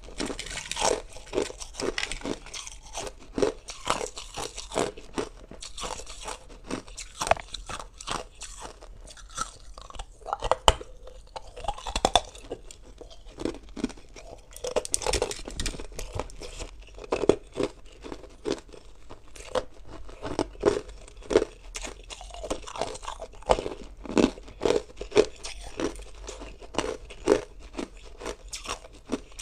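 Hard ice being bitten and chewed close to the microphone: a run of sharp, irregular crunches.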